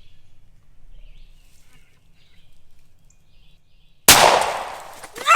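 .410 shotgun, loaded with TSS shot, fired once about four seconds in at a gobbler: a single sharp, loud report whose echo fades over about a second. Before it there is only faint outdoor ambience.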